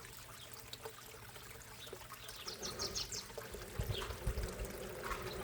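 Water trickling and splashing steadily into a backyard koi pond, with a few short high chirps about halfway and low thumps growing in the second half.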